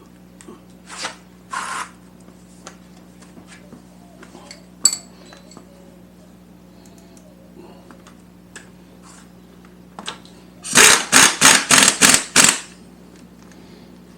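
Hand tools working on a motorcycle's front engine-mount brackets: scattered light metal clinks and one sharp ringing clink, then near the end a quick run of about seven rasping strokes, roughly four a second, as bolts are tightened.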